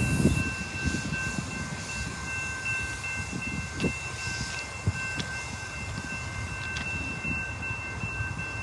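Train cars rolling past with a low rumble and scattered clacks from the wheels over the rails. The rumble is loudest at the start and eases after about a second, and a faint, steady high-pitched tone sits above it.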